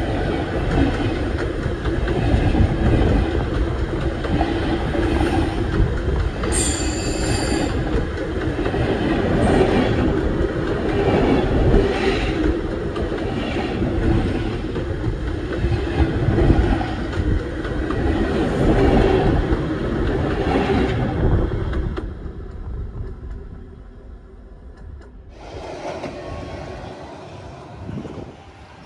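Railway passenger coaches rolling directly over the microphone between the rails: a loud, heavy rumble of wheels and bogies with repeated clacks over the rail joints and a brief high wheel squeal about seven seconds in. The rumble fades once the last coach has passed, some twenty-two seconds in, leaving a lower noise.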